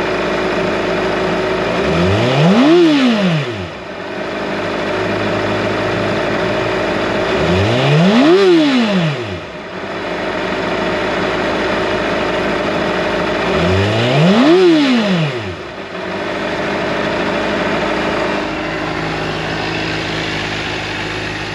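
2018 Honda CBR600RR's inline-four engine idling and revved three times, about six seconds apart. Each blip rises sharply and drops straight back to idle.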